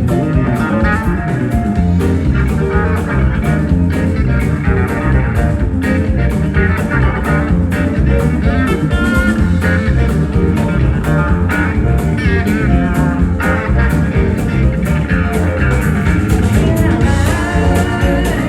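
Live country-rock band playing an instrumental passage: an electric guitar lead with bending notes over a steady drum beat and bass.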